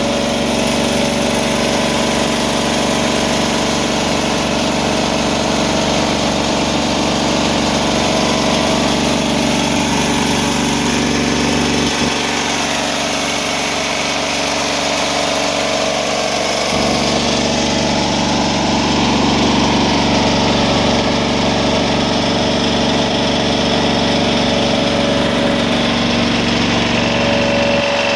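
Hydramaster Boxxer 421 truck-mount carpet cleaning machine running steadily, its engine and vacuum blower droning under load. The low rumble thins for a few seconds about halfway through, then comes back.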